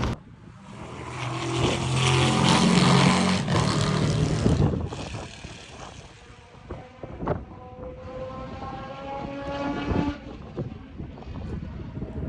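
Racing engine passing at speed, building to its loudest about two to four seconds in and then fading away. A second racing engine follows, its pitch rising steadily as it accelerates, about seven to ten seconds in.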